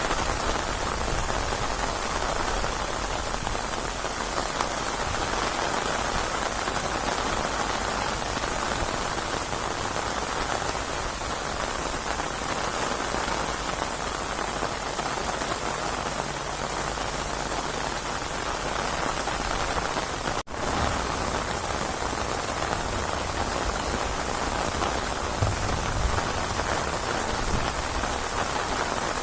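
Steady heavy rain, a dense even hiss of drops on surfaces, with a split-second dropout about two-thirds of the way through.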